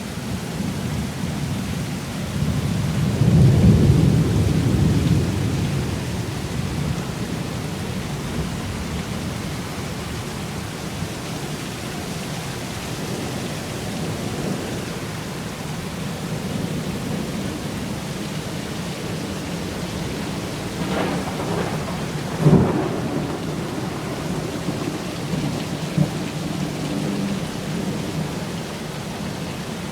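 Heavy rain pouring steadily in a thunderstorm. A rolling rumble of thunder swells about three to five seconds in, and a single sharp crack comes about two-thirds of the way through.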